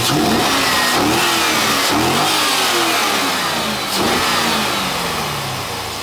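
2004 Corvette LS1 5.7-litre V8 being revved by hand three times, about two seconds apart, each time rising quickly and falling back toward idle. The seller describes the engine as in top shape with no knocks or ticks.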